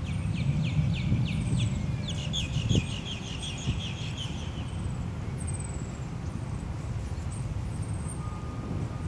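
Birds calling: two quick runs of rapid chirps in the first three and a half seconds, then thin high calls repeating. Under them is a low rumble that is loudest in the first three seconds and then eases off.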